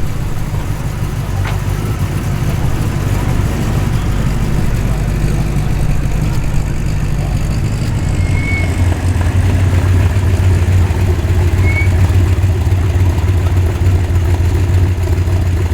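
Car engines idling as cars roll slowly past, a steady deep rumble that grows stronger about halfway through as another car comes close.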